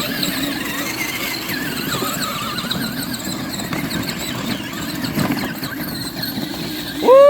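Electric ride-on toy truck's motors whining as its wheels churn through mud, a steady grinding hum with a wavering high whine. Just before the end a loud, high-pitched cry starts suddenly.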